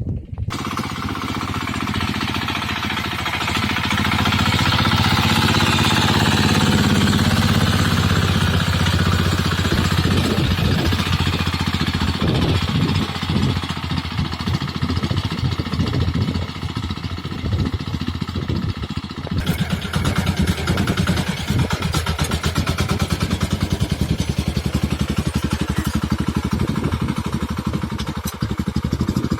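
Engine of a sanedo mini tractor running steadily, with fast, even firing pulses; the sound changes abruptly about two-thirds of the way through.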